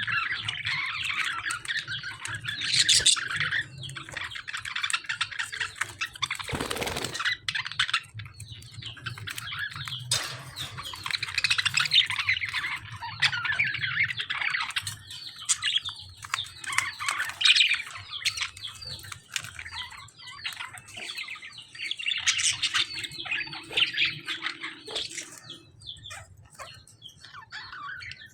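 A flock of budgies and lovebirds chattering continuously, a dense mix of chirps and sharp squawks with short pauses. A brief loud rustle comes about seven seconds in.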